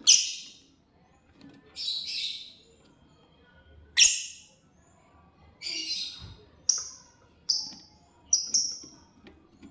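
Lovebird giving short, shrill, high-pitched chirps: about eight calls at irregular intervals, with a quick pair near the end.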